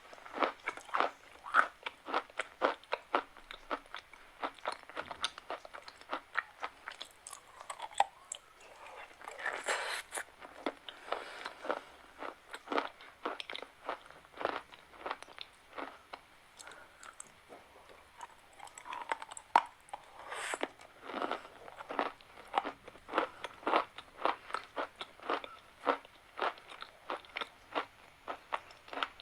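Chalk being bitten and chewed close to the microphone: a rapid series of sharp, dry crunches, several a second, easing off briefly twice.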